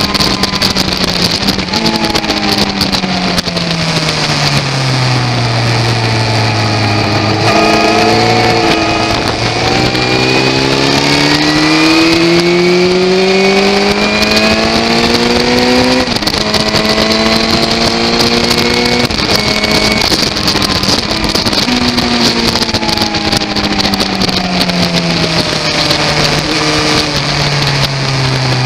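Suzuki Bandit motorcycle's inline-four engine at track speed: the revs fall for the first several seconds as it slows, climb steadily under acceleration with a gear change about halfway through, then fall again near the end. A steady rush of wind runs underneath.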